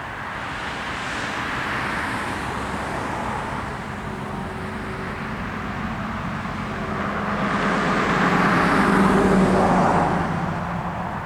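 Road traffic going by: two vehicles pass, a lighter one about two seconds in and a louder one peaking around nine seconds in, with a faint steady engine hum underneath.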